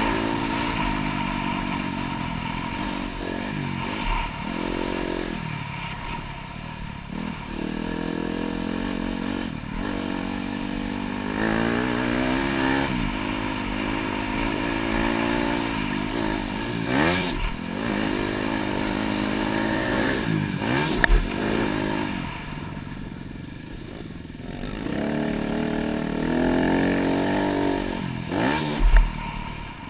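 Dirt bike engine being ridden around a motocross track, its pitch climbing and dropping over and over as the throttle opens and closes. A few sharp knocks cut through, the loudest near the end.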